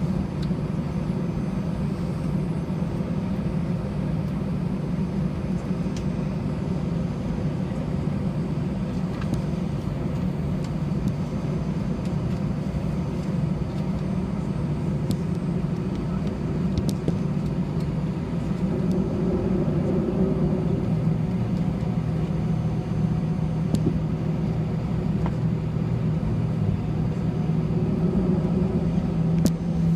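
Airliner cabin noise inside an Airbus A320-211 on the ground before takeoff: a steady low rumble from its CFM56 engines at idle, with a steady hum that sets in about two-thirds of the way through.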